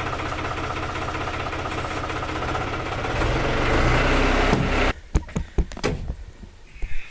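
Tractor engine running steadily as the loader forks are moved, swelling in level shortly before it cuts off abruptly about five seconds in. A few sharp clicks and knocks follow.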